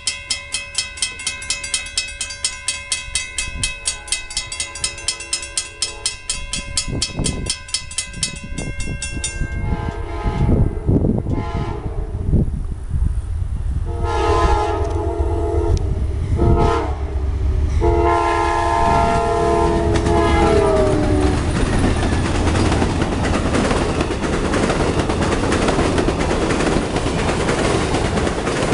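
Railroad crossing bell ringing rapidly, stopping about nine seconds in. Then the Amtrak Silver Meteor's horn sounds long blasts, the last dropping in pitch as the locomotive passes. The steady rush of the passenger cars running by at speed on the rails follows, the train not stopping.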